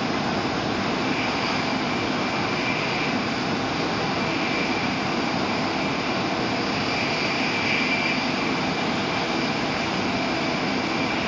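Shinkansen bullet train running at speed, heard inside the passenger car: a steady rushing noise with a faint high whine over it.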